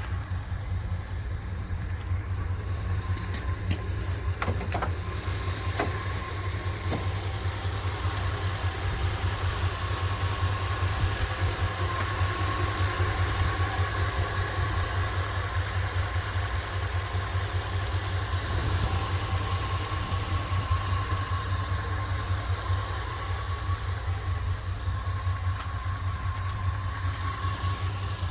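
2002 Dodge Ram 1500's 5.9-litre gas V8 idling steadily, with a few light clicks in the first five seconds.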